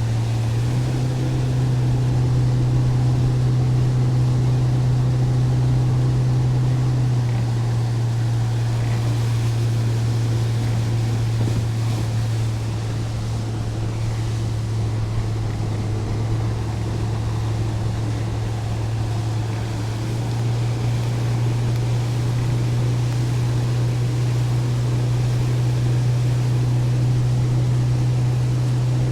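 Boat motor running steadily at cruising speed, its pitch rising or dropping a little a few times as the throttle or load changes, with wind and water rushing past.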